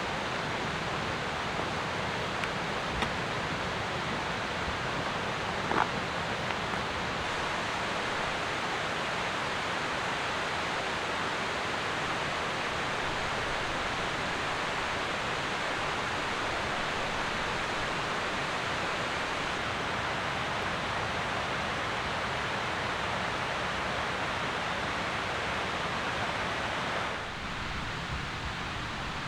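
Steady rain falling, an even hiss, with a few faint ticks and one sharper tap about six seconds in.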